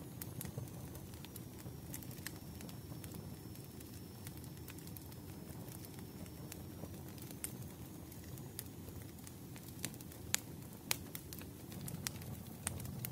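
Log fire crackling: a steady low rumble with scattered sharp pops and snaps, a few louder ones near the end.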